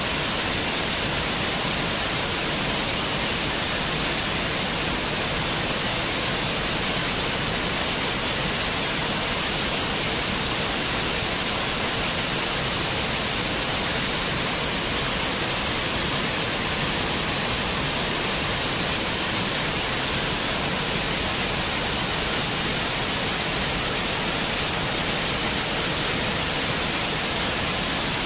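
Running water, a steady even rush with no changes in level.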